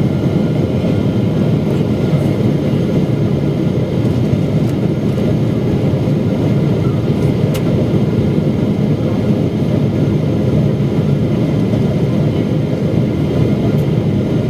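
Steady in-cabin rumble of a Boeing 777-300ER on approach: engine and airflow noise, even and unchanging.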